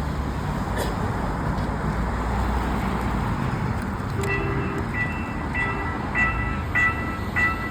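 Railway level-crossing warning bell starting to ring about halfway through, a bright electronic ding repeated steadily a little under twice a second. Before it there is only a steady low rumble.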